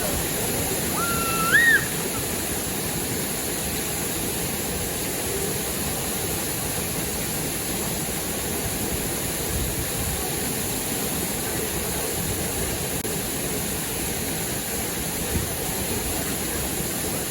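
Steady rushing of river water over a waterfall. About a second in, a short whistle briefly rises in pitch above it.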